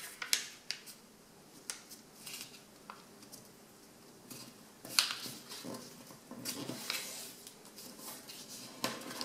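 A sheet of A4 paper being folded by hand and its creases pressed down: scattered rustles and crackles of paper, with louder bursts about five seconds in and again around seven.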